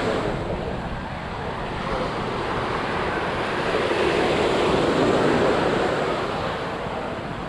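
Ocean surf washing onto the beach, swelling to its loudest about halfway through, with wind buffeting the microphone.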